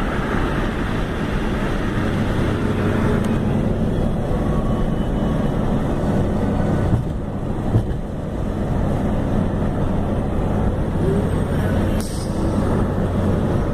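Steady engine hum and road noise of a moving vehicle, with two faint knocks about seven and eight seconds in.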